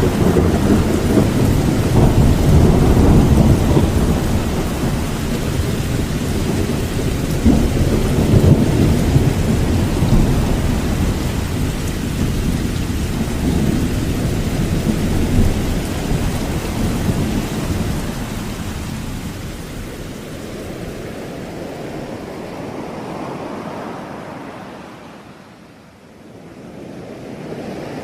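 Thunderstorm: heavy rain with deep rolling rumbles of thunder, loudest in the first half and dying away over the last third. Near the end a softer rushing sound, like surf, swells in.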